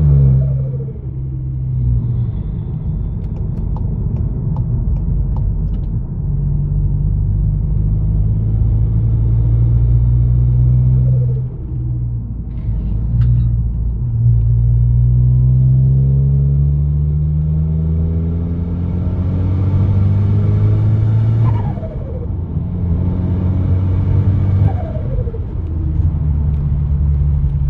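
Volkswagen Golf 7R's turbocharged 2.0-litre four-cylinder engine being revved and let back to idle several times, with a falling turbo whistle and flutter each time the throttle closes, about four times; one long, slow climb in revs before the third.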